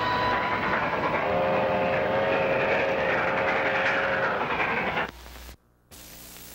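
Train running with rail noise, its whistle blowing one long steady chord from about a second in until about four seconds in. The sound cuts off about five seconds in, leaving only a faint hum.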